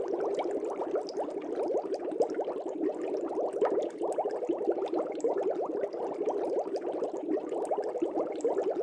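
Aquarium air bubbles rising and popping at the water surface: a steady, dense bubbling made of many rapid small pops.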